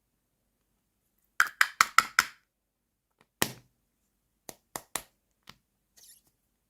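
Small hard toy pieces clicking and tapping together as they are handled: a quick run of five clicks, one louder knock, then a few lighter clicks and a brief faint rustle near the end.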